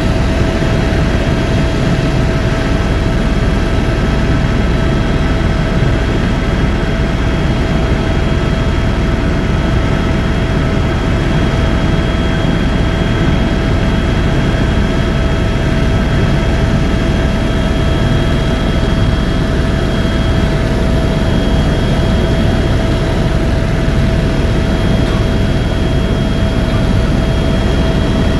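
Helicopter running, heard from on board: a steady, loud, deep rumble with a constant high whine over it.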